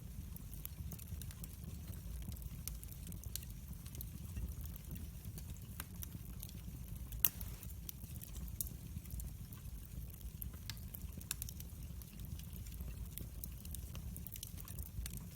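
Wood fire burning in a fireplace: a steady low rumble with frequent small crackles and one louder pop about seven seconds in.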